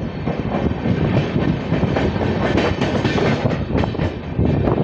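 Passenger train coaches running through a station at speed, heard from an open doorway: steady rush of wheels on rail with rapid, irregular clicking and clattering from the wheels over the track.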